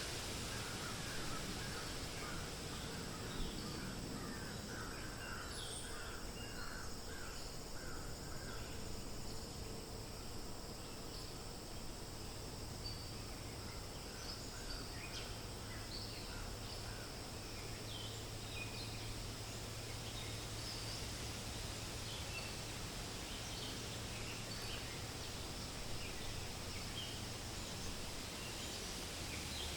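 Steady wind rustling through forest leaves with birds calling: a run of quick repeated notes in the first third, then scattered short high chirps.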